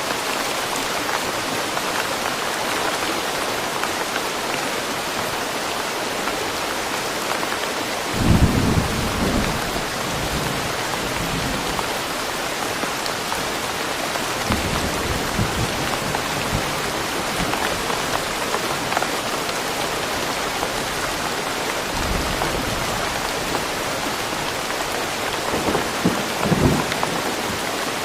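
Steady rain falling on forest foliage, an even hiss throughout. Low rolls of thunder rumble beneath it, the first about eight seconds in, more in the middle, and another near the end.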